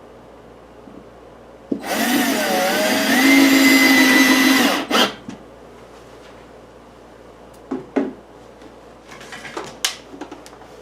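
Power drill driving a wood screw through a metal mounting plate into wood: the motor runs for about three seconds, its pitch dipping and then rising to hold steady, followed by a short second burst. A few light knocks and clicks come after.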